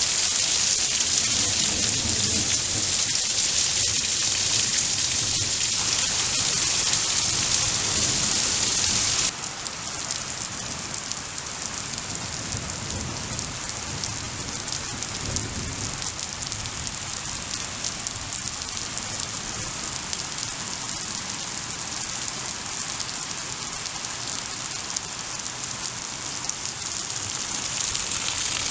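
Heavy rain pouring down, a dense steady hiss of drops striking surfaces. About a third of the way in it suddenly drops to a somewhat quieter level and stays even.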